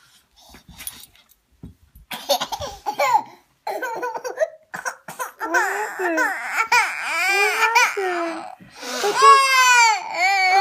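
One-year-old baby laughing, squealing and babbling in short high-pitched bursts, which grow louder and turn into longer high wails in the last couple of seconds.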